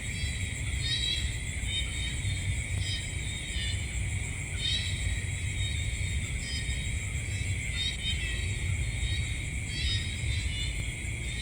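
Night insect chorus: steady high-pitched trilling at several pitches, with short chirping calls repeating every second or two over a low rumble.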